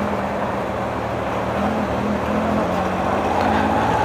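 Motorcycle engine running at idle, a steady hum with a higher tone that rises slightly in the second half.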